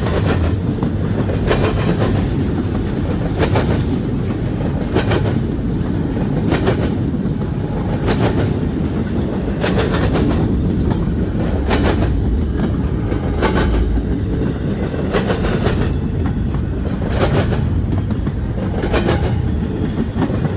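Freight train of intermodal cars rolling past: a steady low rumble of wheels on rail, with a sharp clack about every second and a half as the wheel sets cross a rail joint.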